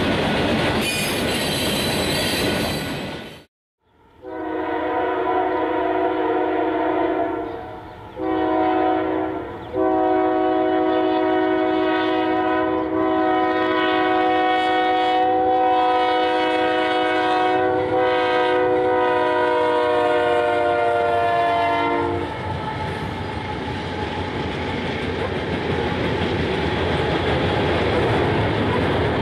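Freight cars rolling past with their wheels clacking, cut off suddenly after a few seconds. Then a diesel locomotive horn sounds a blast of a few seconds, a short one, and a long held blast of about twelve seconds. After the horn stops comes the steady rumble of coal hopper cars rolling across a wooden trestle.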